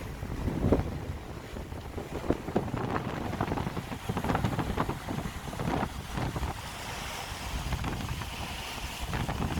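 Wind buffeting the microphone in irregular gusts over a low rumbling background, settling into a steadier rush near the end.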